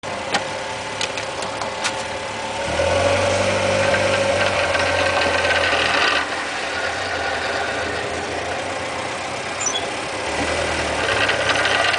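Mitsubishi Jeep J58 engine and drivetrain running with a steady whine from the transmission, the abnormal gearbox noise the owner is recording. The whine and running sound grow louder from about three seconds in to about six seconds in, and again near the end; a few sharp clicks come in the first two seconds.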